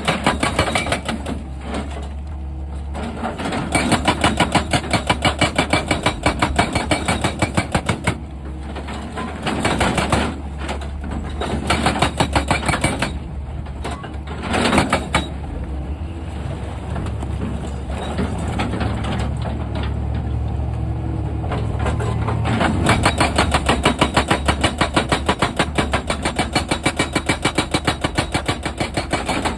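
Excavator-mounted hydraulic rock breaker hammering rock in several bursts of rapid, evenly spaced blows, with the machine's diesel engine running steadily underneath.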